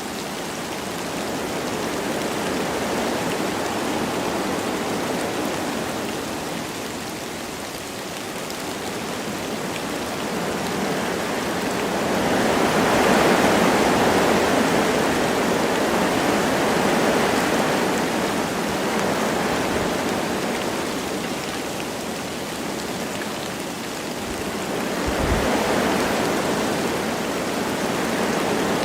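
Wind rushing through forest trees with light rain, a steady noise that swells into gusts and dies back, strongest in a long gust about midway and another near the end.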